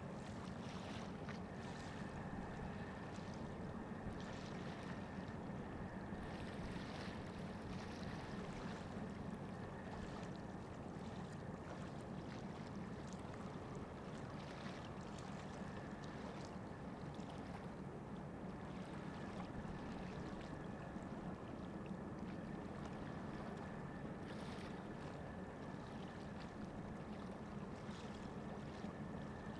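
Steady low drone of ship engines, likely the ore carrier and its tugs, with a faint steady whine above it and short hissing swells of water or wind now and then.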